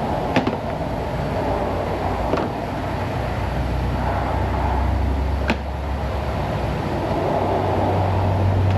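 A steady low mechanical drone, shifting a little higher near the end, with three sharp metallic clicks of hand tools under a car.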